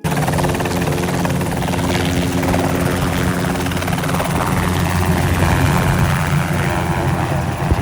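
Helicopter running loudly and steadily, its rotor and engine noise filling the sound, with a steady hum in the mix that fades out about four seconds in.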